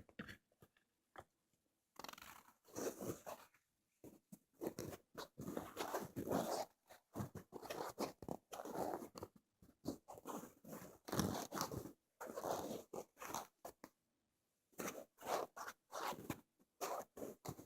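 Ear-cleaning ASMR sounds on a microphone: crackly scratching and rubbing in bursts of strokes, with a short pause before quicker strokes near the end.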